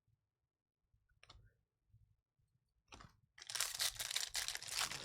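Plastic wrapper of a trading-card pack being torn open and crinkled: two brief rustles, then steady loud crinkling and tearing from about three and a half seconds in.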